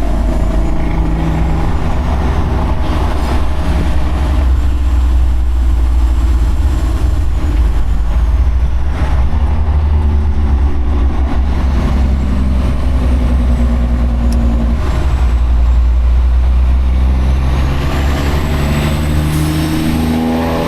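Semi truck's diesel engine running under way with a heavy low rumble, its pitch stepping up and down as the revs change.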